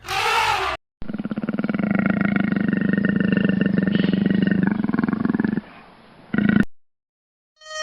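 A big cat's long, rough growl lasting about four and a half seconds, preceded by a short noisy burst and followed by a brief one near the end.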